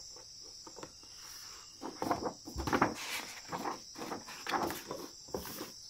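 A stiff picture-book page being turned by hand: irregular rustling and flapping of paper from about two seconds in until shortly before the end. Under it runs a steady high chirring of insects.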